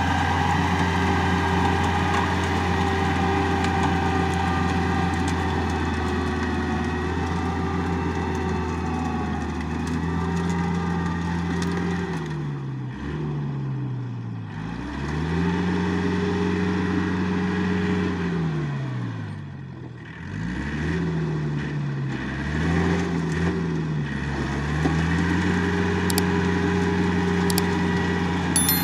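Tractor diesel engine working a field while plowing. It runs steadily at first, then from about halfway through its speed falls and climbs back up several times before settling again.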